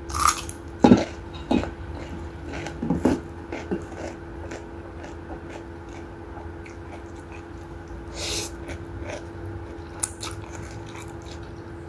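A person chewing and slurping instant noodles close to a clip-on microphone, with scattered small clicks and a short slurp about eight seconds in.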